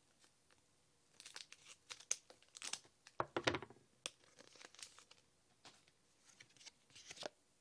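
Foil booster-pack wrapper crinkling and being torn open by hand: a run of short rustles and tears, busiest in the first half, then lighter handling.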